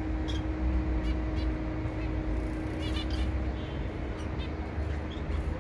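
Zebra finches calling: short, sharp chirps scattered throughout, some in quick clusters about halfway through, over a steady low rumble and a faint hum.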